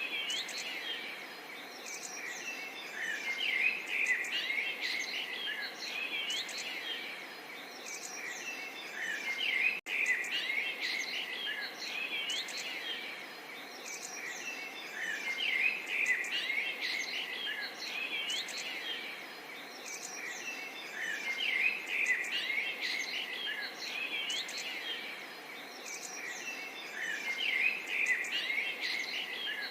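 A dense chorus of many small birds chirping and twittering, swelling and easing every few seconds, with a very brief dropout about ten seconds in.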